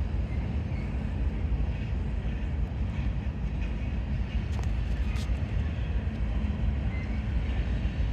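Freight train rolling slowly past: a steady low rumble, with a few faint clicks about halfway through.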